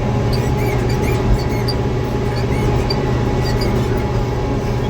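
Tractor engine running steadily under load, heard from the cab, with a squeaky seat giving short, high squeaks over and over; the dry seat wants lubricating.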